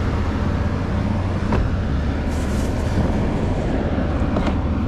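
A truck engine idling steadily, with a couple of light knocks about a second and a half in and near the end.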